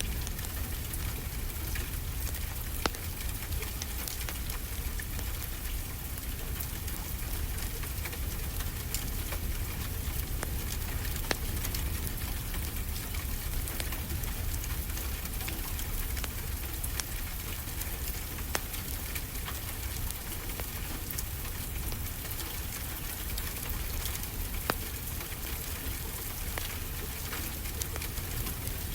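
Steady rain hissing, with occasional sharp pops and crackles from a wood fire.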